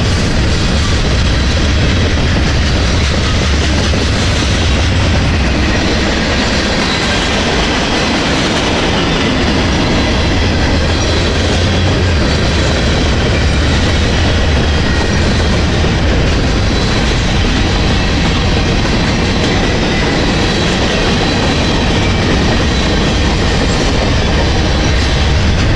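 Freight train rolling past close by: a steady, loud rumble of steel wheels on the rails, with faint high ringing above it.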